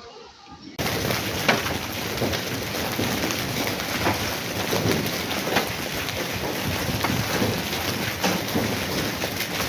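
Heavy rain pouring down: a dense hiss full of sharp drop impacts on hard surfaces, starting abruptly about a second in.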